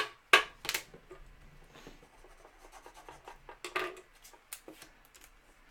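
Trading cards and their plastic holders being handled on a table: a few sharp clicks just after the start and again around four seconds in, with soft rubbing and sliding between.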